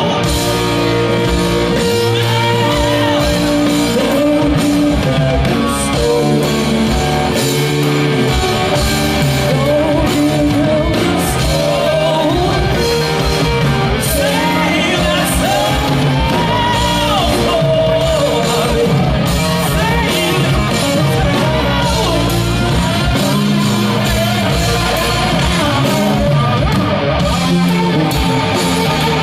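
Live rock band playing, recorded from the crowd in a large venue: electric guitar with bending lead lines over bass and drums, with wordless singing.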